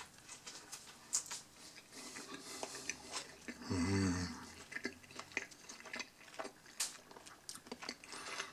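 Close-up chewing and mouth sounds of someone eating a hamburger, with many small wet clicks. About four seconds in there is a short closed-mouth hum.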